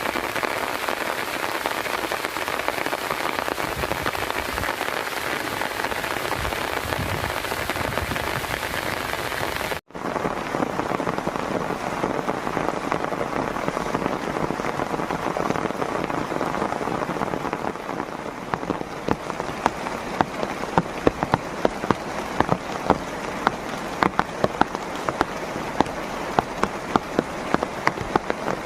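Heavy rain falling in a steady dense hiss. After a sudden break about ten seconds in, the rain goes on with sharp individual drops tapping loudly on a surface, more and more of them toward the end.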